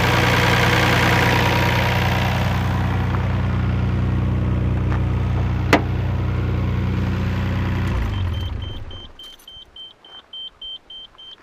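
Nissan Skyline GT-R's RB26DETT twin-turbo straight-six idling steadily, with one sharp click about halfway through. About eight seconds in the engine is switched off and winds down, and a fast, high beeping chime starts: the car's lights-left-on warning.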